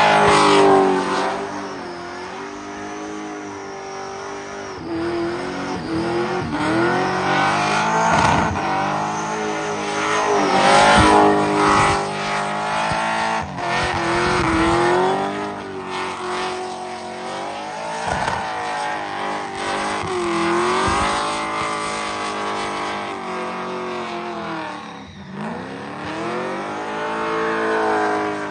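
Burnout car's engine revving hard and repeatedly rising and falling in pitch while its rear tyres spin and squeal against the pavement.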